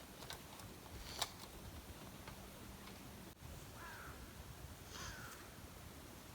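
A crow calling twice, two short calls a little over a second apart in the second half, over a faint hiss, with a sharp click about a second in.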